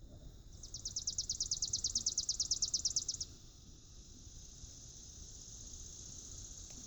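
An insect calling: a loud, fast high-pitched trill of about ten pulses a second for roughly two and a half seconds, then a steady, fainter high buzz at the same pitch.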